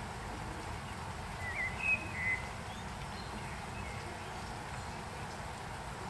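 A few short bird chirps in quick succession about one and a half to two and a half seconds in, over a steady low background rumble.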